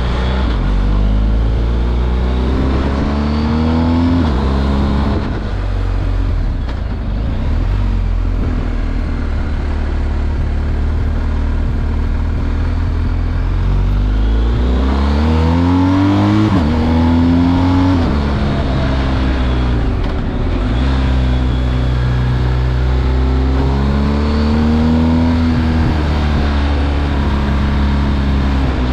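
BMW R1250 GS Adventure's 1254 cc boxer twin on its stock exhaust, running under throttle. Its pitch climbs and drops back several times.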